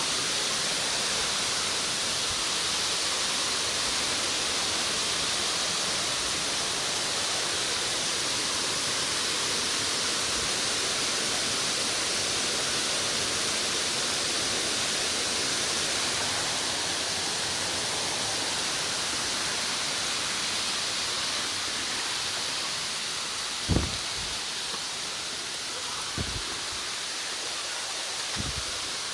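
Waterfall rushing in a steady, even roar of falling water. A few brief low thumps come near the end.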